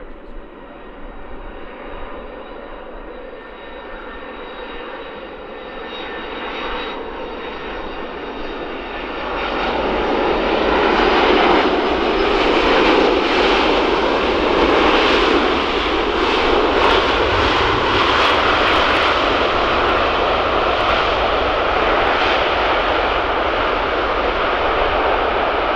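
Jet aircraft engines, a moderate steady noise that swells about nine seconds in to a loud, sustained roar as the aircraft passes.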